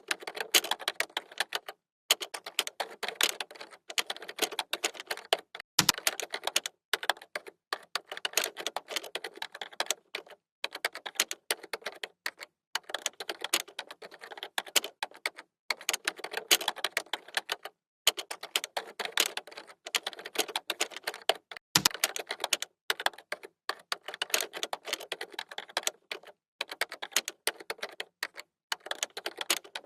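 Computer keyboard typing: quick runs of key clicks broken by short pauses. Twice there is a heavier, deeper keystroke.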